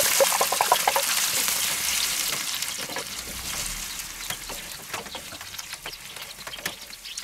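Diced pineapple and vegetables sizzling loudly as they hit a hot oiled pan over charcoal, the sizzle fading steadily over the next few seconds. A wooden spatula scrapes and knocks in the pan as the mix is stirred.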